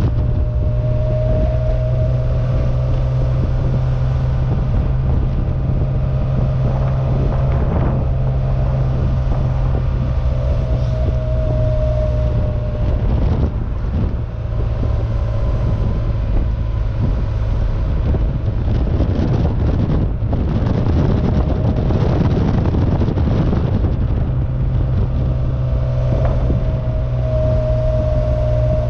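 Air-cooled 2.7-litre twin-plug flat-six of a 1972 Porsche 914-6 running steadily while cruising, heard from the open cockpit along with wind and road noise.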